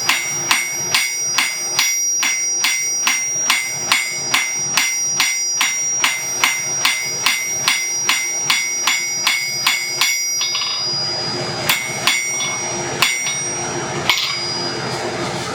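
Blacksmith's rounding hammer striking steel on the anvil in a steady rhythm of about two and a half ringing blows a second. After about ten seconds the steady hammering stops, and three separate ringing blows follow.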